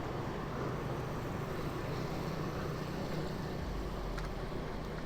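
Steady city street traffic noise: engines and tyres of passing vehicles, a dense, even rumble.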